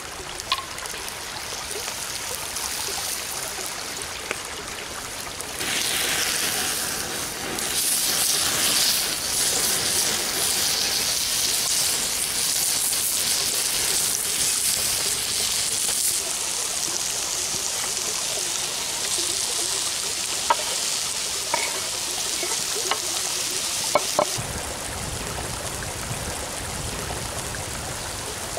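Hamburger patties, bacon and morels sizzling on a hot stone slab over a campfire: a steady hiss that swells about six seconds in, with a few sharp pops late on. Near the end the sizzle drops away and a lower, duller rushing takes over.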